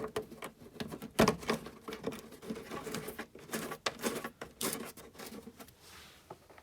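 Plastic bumper trim and fasteners being handled and fitted: irregular clicks, taps and scraping rustles, with one sharper knock about a second in, tailing off near the end.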